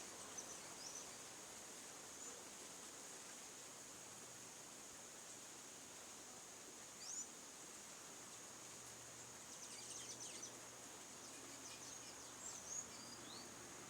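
Faint natural ambience: a steady high insect drone with scattered short, quick bird chirps, a little louder about halfway through and near the end.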